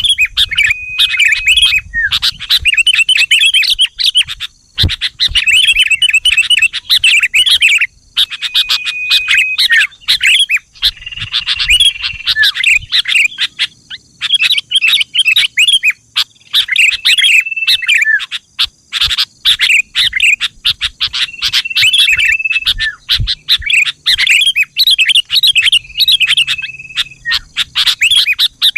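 Sooty-headed bulbul (kutilang) singing over and over: quick chattering phrases of chirps, many ending in a short held whistled note, with brief pauses between phrases.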